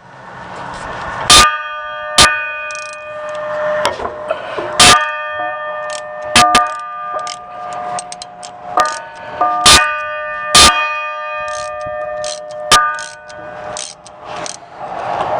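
A small metal bell struck about seven times at irregular intervals, each strike ringing on with several clear tones that fade out, with a few lighter clicks in between.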